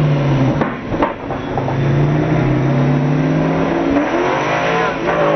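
Car engine under acceleration heard from inside the cabin. The engine note breaks briefly about a second in, then the revs climb.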